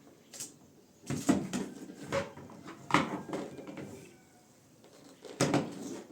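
A series of separate knocks and clatters from objects being handled. The loudest come about a second in, near three seconds and near the end.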